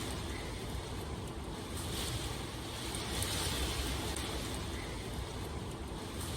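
Steady rain ambience: a continuous hiss over a deep rumble, swelling and easing every few seconds, with a windy edge.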